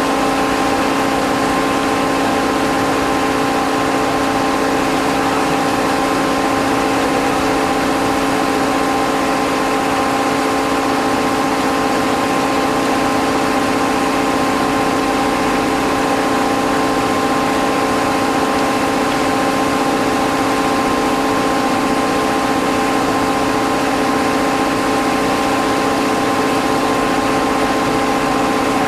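Heavy electric machinery humming steadily, holding several fixed tones over a constant rushing background with no change in speed or load.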